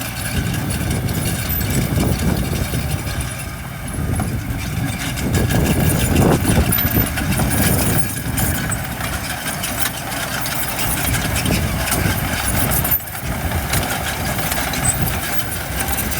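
Heavy diesel construction machinery running steadily. It swells louder about five to seven seconds in and dips briefly near thirteen seconds.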